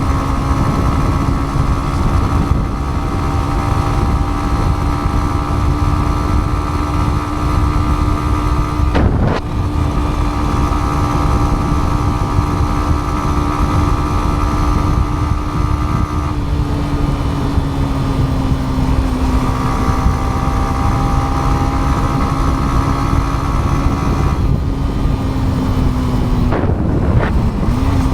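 Yamaha MT-15 single-cylinder motorcycle engine running at steady cruising revs under strong low wind rumble. The engine note breaks briefly about nine seconds in, sags slightly past halfway, and dips and recovers near the end.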